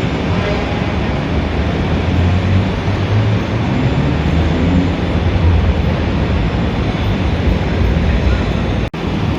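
Dense city street traffic: a steady low rumble of engines and tyres. The sound cuts out for an instant near the end.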